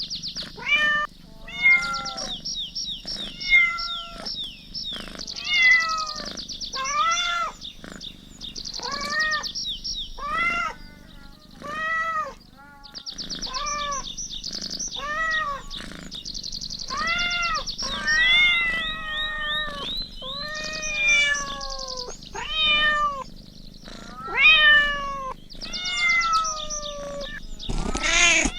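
Kittens meowing over and over, high-pitched calls coming about once a second, some rising and falling, with a high chirring sound in the background.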